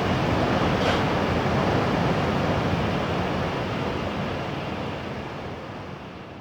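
Steady running noise of an N700A Shinkansen train heard from inside a passenger car: an even rumble and rush of air, fading away over the last few seconds.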